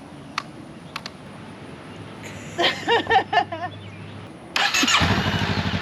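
A 2021 Honda Rebel 500's parallel-twin engine starts up about four and a half seconds in and settles into a steady idle.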